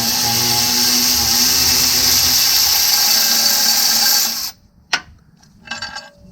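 A power tool's motor running steadily with a high whirring hiss, cutting off suddenly about four and a half seconds in, followed by a single sharp click and a few light knocks.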